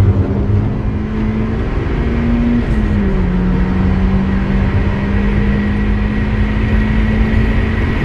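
Turbocharged Mazda MX-5's four-cylinder engine running hard at high, nearly steady revs, with a short dip in pitch about three seconds in, over steady road and wind noise.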